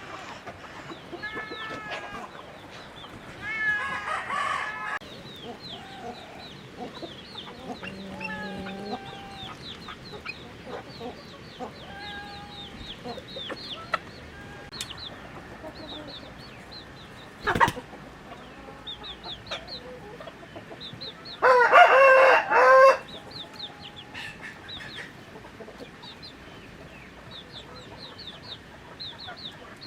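Chickens clucking and chirping, with a rooster crowing loudly for about a second and a half about two-thirds of the way in, and a shorter call earlier. There is a single sharp knock shortly before the crow.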